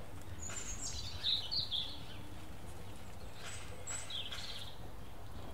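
Small birds chirping in short calls, a few times over a low steady background rumble.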